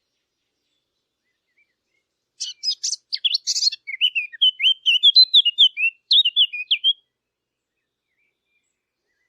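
A Sylvia warbler singing one fast, varied warbling phrase of about four and a half seconds, starting a couple of seconds in. It opens with high, scratchy notes and runs on into quick chirping notes that rise and fall.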